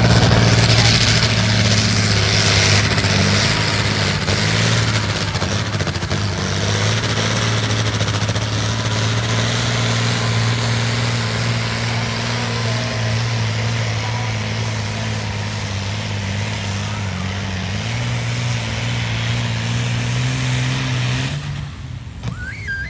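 Pulling tractor's engine running flat out under heavy load, a loud steady drone with heavy exhaust noise that holds its pitch for about twenty seconds and then falls away near the end.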